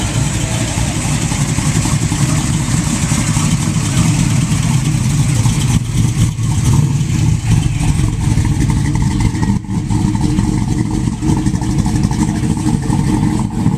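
A loud vehicle engine running steadily and low-pitched, the level fluctuating slightly.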